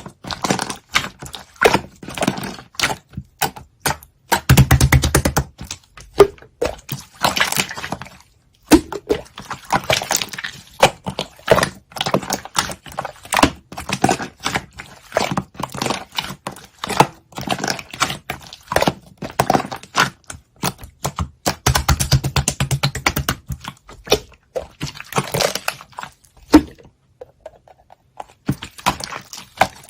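Slime being squeezed and pressed by hand, making rapid irregular clicks and pops from trapped air. It gets denser and louder twice, about five seconds in and again around twenty-two seconds in.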